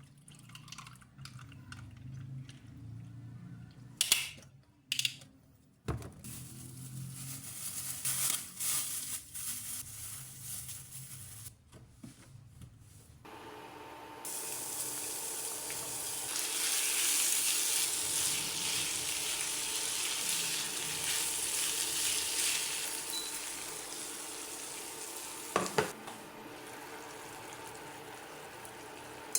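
Kitchen cooking sounds. Scattered clicks and knocks of utensils come first, then a steady hiss that grows loudest for several seconds past the middle, with a sharp knock near the end.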